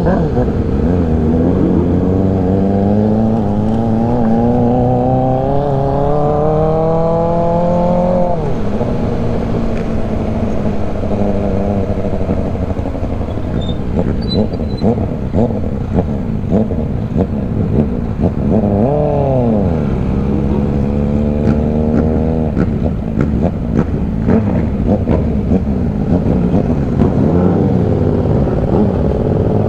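Motorcycle engine heard from the bike while riding: it accelerates, its pitch climbing steadily for several seconds, then drops sharply at about eight seconds as the throttle closes. It runs unevenly for a while, picks up again with a quick rev near the middle, and climbs once more, all over a steady low rumble of wind and road.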